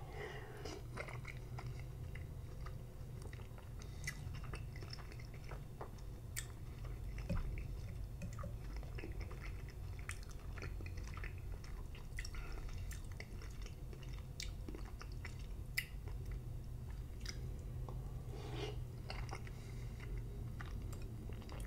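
Close-miked chewing of soft, slimy cooked spinach: wet mouth and lip sounds with many short, sharp clicks. A steady low hum runs underneath.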